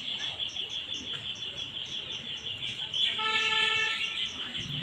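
Insects chirping in a steady high pulsing rhythm, about four pulses a second. A horn sounds once, a steady tone for about a second, some three seconds in.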